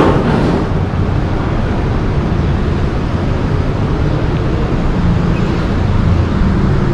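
Steady noise of busy road traffic, with wind rumbling on the microphone.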